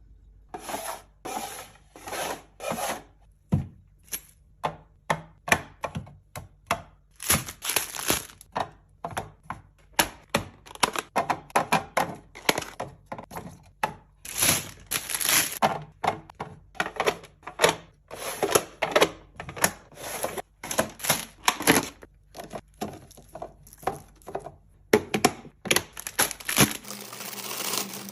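Items and containers being handled and set down while a fridge is cleaned and restocked: a steady run of short clicks, knocks and rustles, with a couple of seconds of steady hiss near the end.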